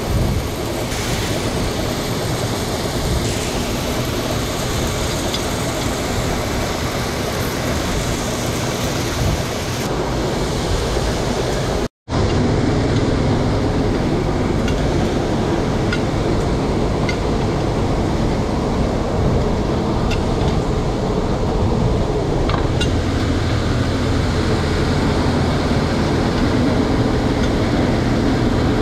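Steady noise of running grain-bin machinery, broken by a sudden split-second gap about twelve seconds in, after which a steady drone with a low hum carries on.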